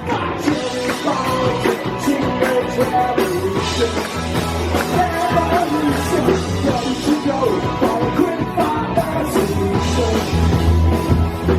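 Live rock band playing a song: drums, bass and a singer's voice over the band, loud and continuous.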